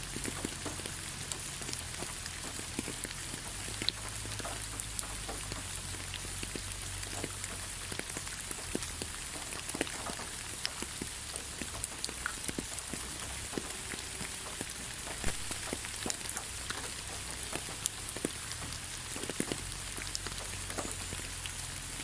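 Steady rain falling on a forest, an even hiss with many scattered individual drops ticking and pattering close by.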